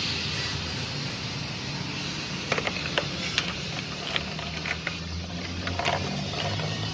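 Kawasaki Z800 inline-four motorcycle engine idling steadily through an SC Project aftermarket exhaust, with scattered sharp ticks from about two and a half seconds in.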